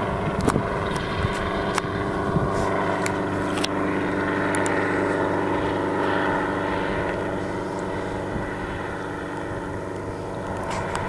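Helicopter engine and rotor running steadily, with a few sharp clicks in the first few seconds.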